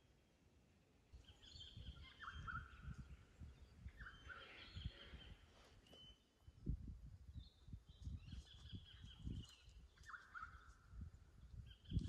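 Faint bird calls repeating every couple of seconds, a lower short call with a quick rise alternating with higher calls. Irregular low rumbling noise on the microphone runs underneath and is the loudest sound.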